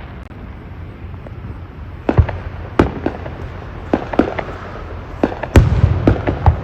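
Fireworks going off: a string of sharp bangs beginning about two seconds in, coming thicker and heavier near the end, with a deep rumble under the loudest, over a steady background hiss.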